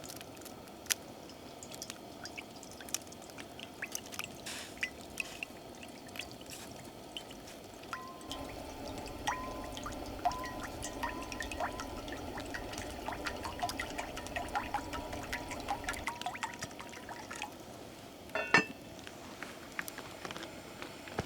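Liquid poured steadily into a container for about eight seconds, among light clicks and clinks of cooking gear, with a sharper knock near the end.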